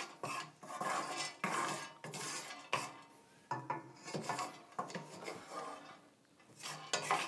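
A utensil stirring cashew pieces in a pan: a run of irregular scrapes and clinks against the pan, pausing briefly twice.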